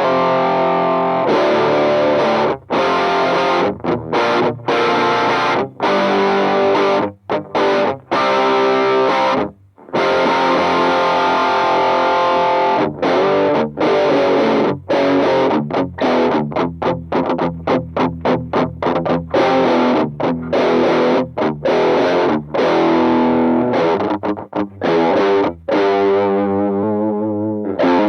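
Distorted electric guitar played through a Mooer Pitch Box pitch-shifting pedal: chord riffs broken by short stops, turning to quicker, choppier repeated notes in the second half.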